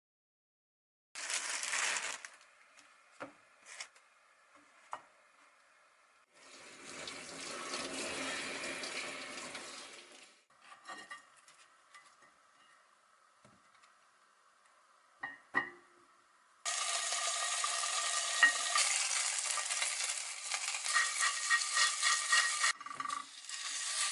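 Kitchen cooking sounds: a few clinks and handling noises, a spell of steady hiss, then, from about two-thirds of the way in, food sizzling steadily in a frying pan with fine crackling.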